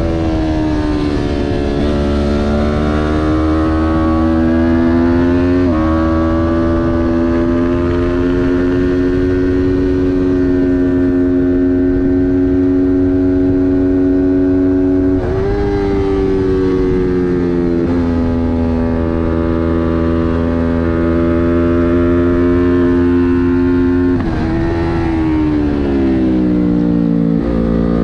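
Kawasaki Ninja 400's parallel-twin engine racing at high revs through a lap. The pitch climbs and holds, changes sharply with gear shifts about six and fifteen seconds in, then drops away and climbs again near the end.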